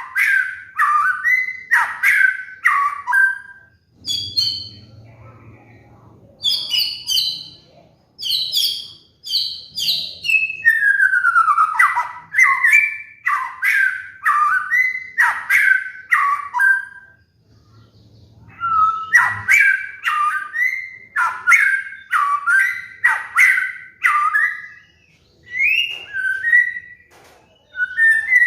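White-rumped shama (murai batu) singing: quick runs of loud, varied whistled notes and phrases, with brief lulls about four seconds in and about eighteen seconds in.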